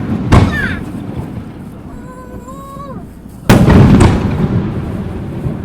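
Aerial firework shells bursting: a sharp bang a fraction of a second in, then a louder boom about three and a half seconds in that rumbles and echoes away over more than a second.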